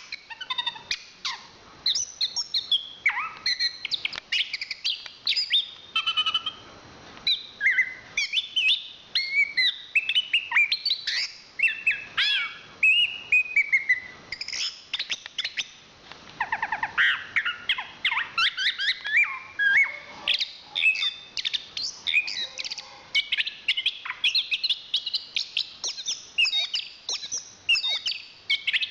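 Chestnut-capped thrush (anis kembang) singing a long, varied song of rapid chirps, whistles and trills, broken by brief pauses.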